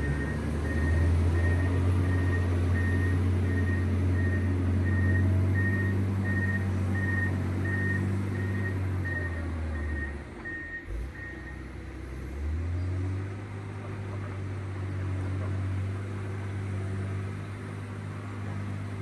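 John Deere 670 GP motor grader's diesel engine running under load, with its reversing alarm beeping steadily. About eleven seconds in the beeping stops and the engine dips briefly, then picks up again.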